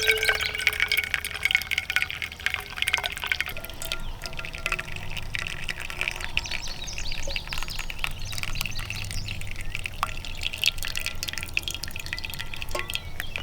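Water being poured through a single-serve drip coffee bag hung across a cup, dripping and trickling into the coffee below, with a steady patter of drips.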